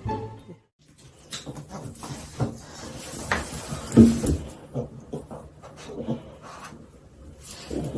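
A dog making a short vocal sound about four seconds in, amid scattered knocks and rustles.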